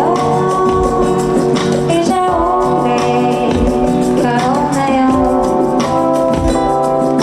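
Live performance through a concert PA: a woman singing long, held notes over a backing band.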